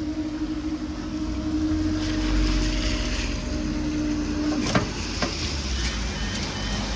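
Level crossing warning alarm sounding a steady tone, which cuts off with a click nearly five seconds in, over a low traffic rumble.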